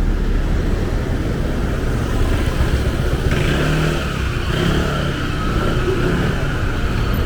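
Steady low vehicle rumble, joined about three seconds in by a high whine that lasts to the end.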